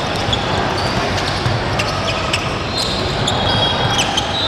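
Basketball game on a gym court: sneakers squeaking on the hardwood and the ball bouncing and thudding, over a steady background of crowd noise in a large hall.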